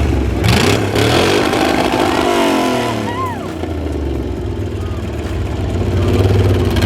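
Custom mud truck's big engine being revved hard while showing off: the note climbs and falls back about three seconds in, then builds again near the end.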